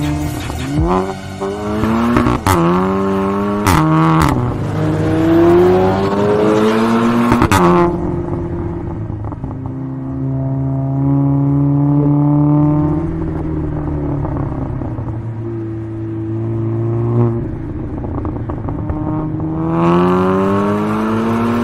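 Turbocharged four-cylinder engine of a Volkswagen Golf R Mk7 accelerating through the gears. The pitch climbs and drops back at each upshift, with sharp cracks at a few of the shifts, then holds fairly steady before climbing again near the end.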